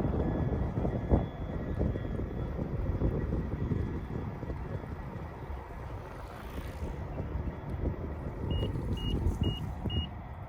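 Wind buffeting the microphone and tyre rumble from an electric unicycle riding over cracked pavement, loudest at the start. Near the end, four short high electronic beeps sound at an even pace, about two a second.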